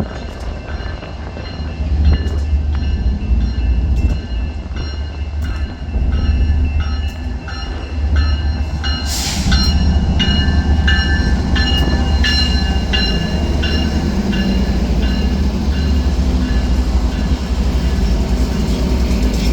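A train rolling past close by: a steady low rumble with short metallic wheel squeals repeating about twice a second, and two brief hisses near the middle.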